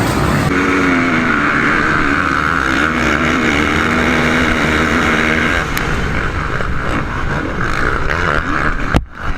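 Motocross dirt bike engines running hard at high revs, the pitch wavering up and down with the throttle. The sound breaks off abruptly near the end.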